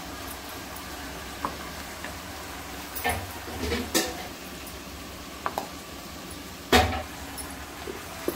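Chicken, flat beans and potato frying in oil in a steel kadai with a steady sizzle as a ground masala paste is tipped in from a steel bowl. A steel utensil clinks and knocks against the pan several times, loudest about seven seconds in.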